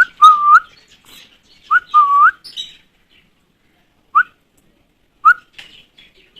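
A person whistling to call nestling birds. There are two short phrases, each a quick upward flick and then a held note that rises at its end, followed by two single short flicks.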